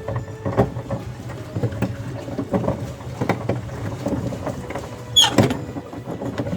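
Small pleasure boat knocking and creaking irregularly as it is brought in to the landing, with a brief high squeal about five seconds in.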